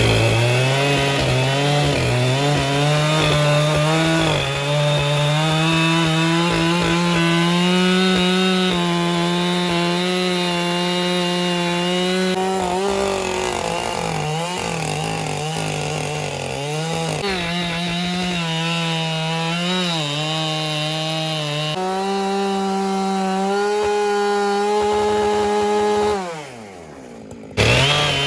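Husqvarna 592XP two-stroke chainsaw running at high revs while cutting through wood, its pitch wavering as the load on the chain changes. Near the end it winds down and falls quiet briefly, then is suddenly back at full speed.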